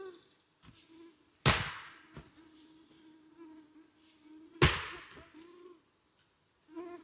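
A flying insect buzzing close by with a steady, slightly wavering hum, broken twice by loud, sharp knocks about three seconds apart.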